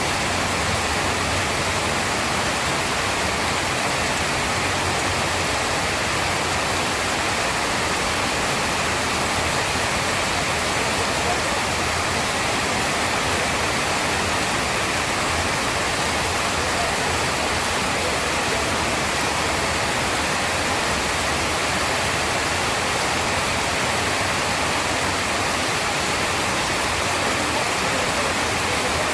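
Heavy rain pouring steadily: a dense, even hiss that does not change.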